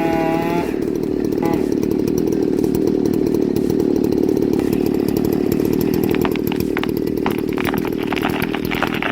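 Chainsaw running at full throttle, its revving tone giving way about half a second in to a steady, heavier sound as it cuts into the tree trunk. From about six seconds in, a run of sharp cracks sounds over the saw as the trunk splits vertically into a barber chair.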